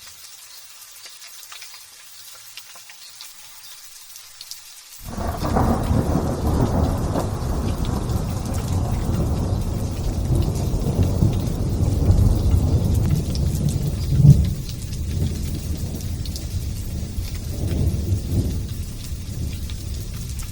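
Light drizzling rain hissing steadily, then about five seconds in a sudden clap of thunder breaks into a long rolling rumble. The rumble swells again about two thirds of the way through and once more near the end.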